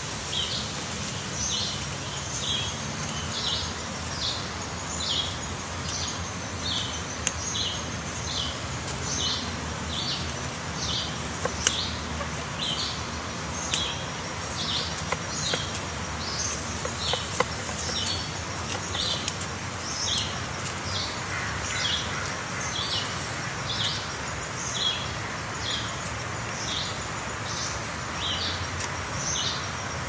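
A high bird chirp repeated steadily, a little under twice a second, over outdoor background noise. It is punctuated by a few sharp knocks as a pileated woodpecker chisels out a cavity in a tree trunk.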